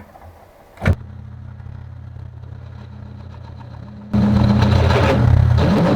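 A machine spindle switches on with a click about a second in and runs with a steady hum. From about four seconds in the cutter bites into the 4140 steel block, much louder and rougher, as it cuts about half an inch down into the hole.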